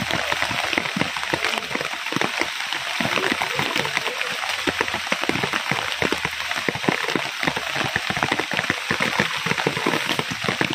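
Heavy rain falling steadily, with many close drops splattering sharply on hard surfaces.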